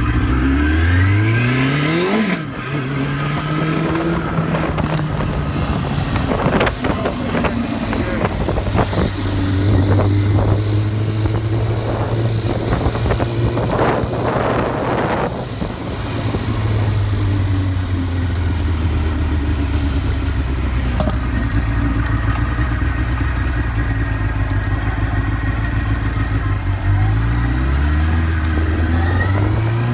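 Motorcycle engine accelerating, its pitch rising and dropping at a gear change, then holding steady while cruising, and climbing again near the end. Wind buffets the phone microphone mounted on the bike.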